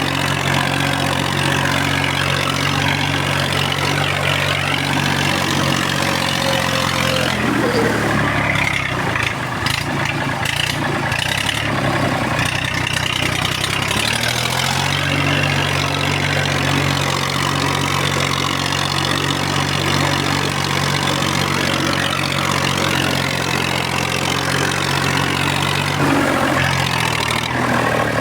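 Massey Ferguson 35X tractor's three-cylinder diesel engine running steadily. About a quarter of the way in its note drops and roughens for several seconds, then picks back up to a steady run, with another brief change near the end.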